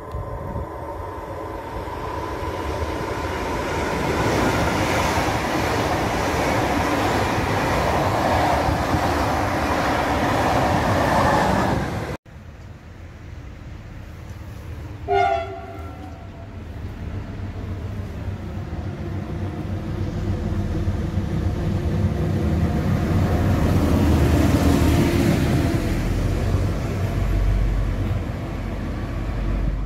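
Trains passing at speed: a loud running rumble and rush with a steady whine, which breaks off abruptly about 12 seconds in. About 15 seconds in a train horn gives one short blast, then a second train's rumble builds steadily toward the end.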